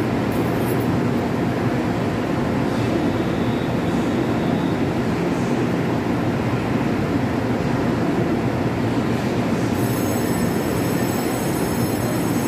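Taiwan Railway electric multiple-unit train at the platform, its on-board equipment humming steadily. Several thin high-pitched tones come in near the end.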